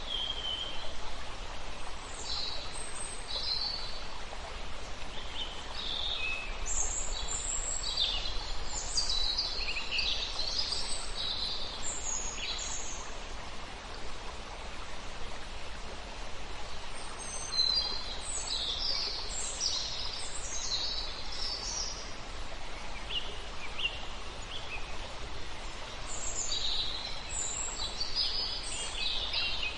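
Songbirds singing and chirping over a steady rush of flowing river water. The bird calls come in bursts of short high notes, busiest in the first half and again near the end.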